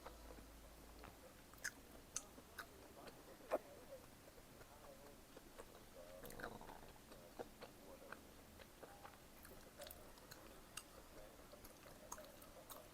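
Quiet chewing of bacon-potato pizza, with scattered small sharp mouth clicks, the loudest about three and a half seconds in.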